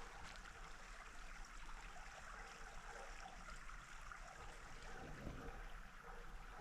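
Creek water trickling and running faintly and steadily.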